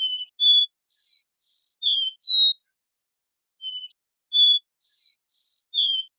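Capped seedeater (caboclinho, Sporophila bouvreuil) singing: two phrases of clear whistled notes, each note sliding slightly, with a pause of about a second between the phrases.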